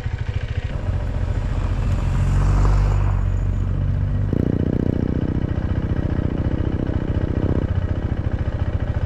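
KTM 390 Adventure's single-cylinder engine running under way, swelling a little about two to three seconds in. From about four seconds in to near the end, a second engine note joins it.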